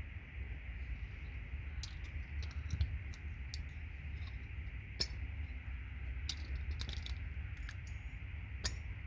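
Scattered light metallic clicks and clinks from gold-plated RJ45 connector pins being pulled out of a patch panel and handled, about eight over the stretch, over a steady low hum.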